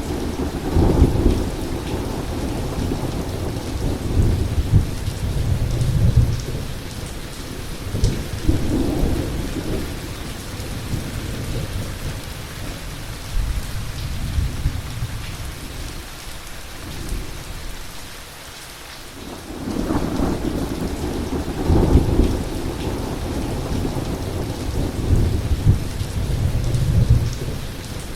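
Heavy rain falling steadily with rolling thunder rumbling through it, the thunder easing off about two thirds of the way through and then rolling in again.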